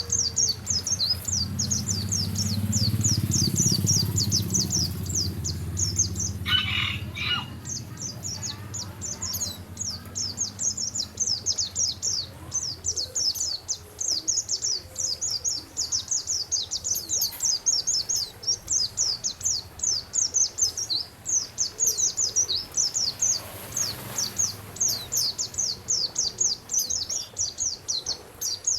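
A small songbird singing a fast, unbroken string of high, sharp chirps, as on a masteran training recording for caged songbirds. There is a low rumble in the first few seconds and a brief lower call about seven seconds in.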